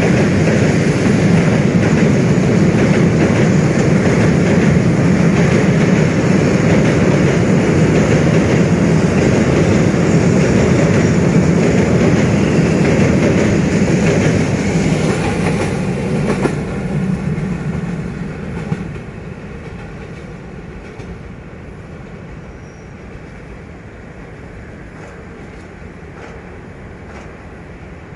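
Passenger train running over a bridge: a loud, steady rumble of wheels on rails that fades away about two-thirds of the way through, leaving a much quieter steady background noise.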